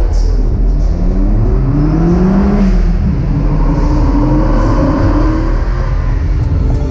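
Car engine accelerating, its pitch rising in two sweeps like revving up through a gear, over a steady low rumble of traffic.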